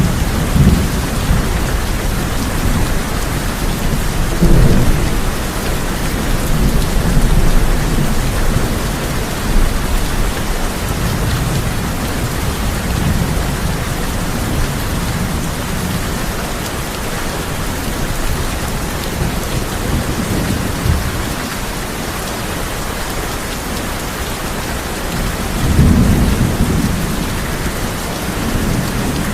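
Steady heavy rain on a tin roof, with low rumbles of thunder rolling in several times, the strongest about four seconds in and near the end.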